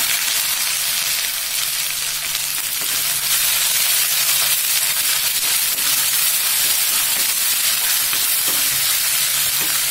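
Ginger-garlic paste sizzling steadily in hot oil with whole spices in a karahi, stirred with a spatula. It is being fried until its raw smell is gone.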